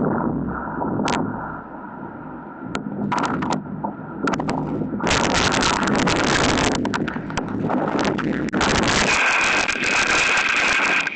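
Strong, gusty wind from a tornado buffeting an outdoor security camera's microphone, easing briefly after the first second and then coming back in loud gusts. A steady high tone starts about nine seconds in and holds.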